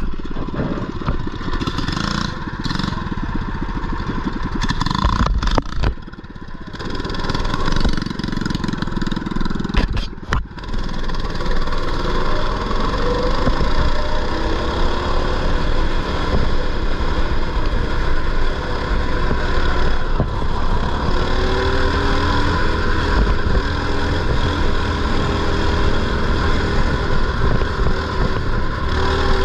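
Mini bike engines running and revving, their pitch rising and falling as the throttle opens and closes. The sound breaks off briefly about six and about ten seconds in.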